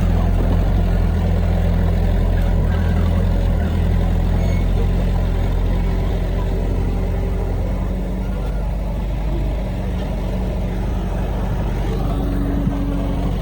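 Heavy diesel engine of earthmoving equipment running steadily under load, with a deep, even drone that eases slightly about two-thirds of the way through.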